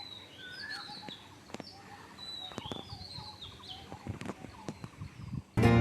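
Wild birds calling at dawn: short whistled notes, several sliding up or down in pitch, overlapping from more than one bird, with scattered sharp clicks. Music cuts in loudly near the end.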